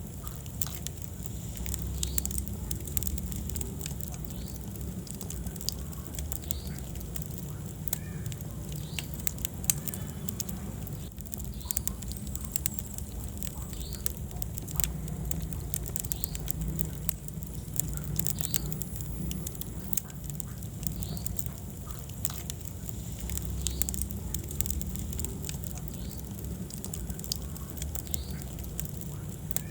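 Wood fire burning in a fireplace: a steady low rumble with frequent sharp crackles and pops, and short high squeaks recurring throughout.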